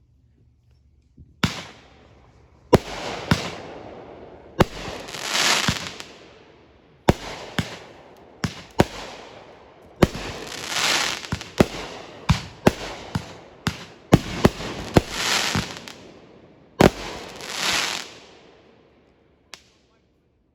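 Fireworks going off: a rapid series of sharp bangs, several followed by a longer rushing, crackling swell that builds and fades. They start about a second and a half in, and one last small pop comes near the end.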